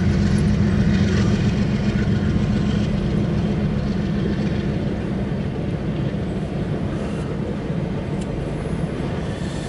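Empty autorack freight cars rolling past in a steady low rumble, heard from inside a car, easing off slightly toward the end.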